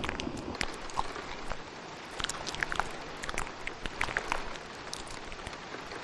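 Layered ASMR mouth sounds: many quick, irregular wet clicks and smacks over a steady patter of rain.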